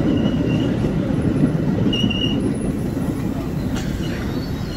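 Metra bilevel commuter cars rolling past at close range: a steady low rumble of steel wheels on rail, with two brief high wheel squeals, one at the start and one about two seconds in.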